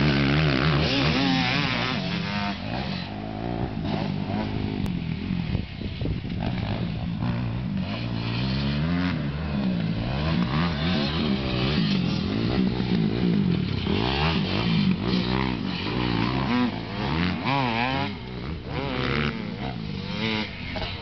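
Motocross dirt bike engines revving, their pitch rising and falling again and again.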